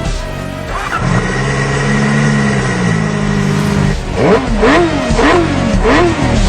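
Sport motorcycle engine running steadily, then revved again and again from about four seconds in, its pitch rising and falling roughly twice a second.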